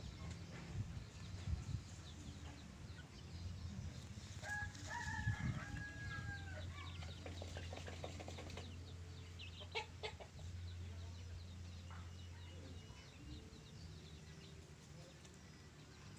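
Chicken calling, a drawn-out pitched call in two parts about five seconds in, with scattered faint clicks later, over a steady low hum.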